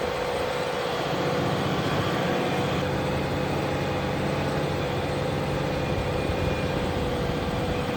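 Fendt tractor's diesel engine running steadily while ploughing, a constant whine sitting over the low drone of the engine.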